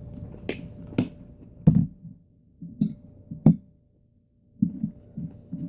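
Eating close to the microphone: a few sharp clicks of a utensil against the dish and short, irregular chewing sounds, with a brief pause a little after the middle.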